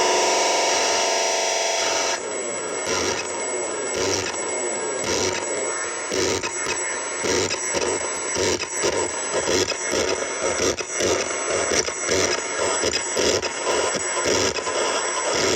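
JMT custom noise synth played through a Sketchy Sounds Old Tapes lo-fi tape delay pedal, making a harsh electronic noise texture. A buzzing pitched tone in the first two seconds gives way to choppy, stuttering noise.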